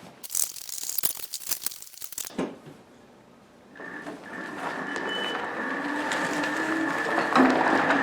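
Clicking and rattling for the first couple of seconds, then the electric drive of a Raven hybrid mower running on its 48-volt battery, a steady whine that starts about four seconds in as the mower moves.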